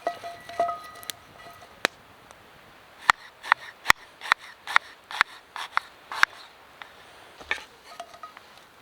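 Hard objects being handled, probably camp gear: a few metal clinks with a short ringing tone, then a run of about nine sharp taps or knocks, two or three a second, and one more tap near the end.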